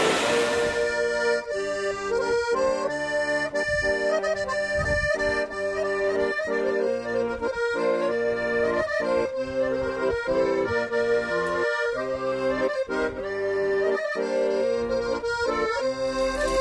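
Background music: a traditional folk tune played on accordion, held notes and chords changing in a steady rhythm.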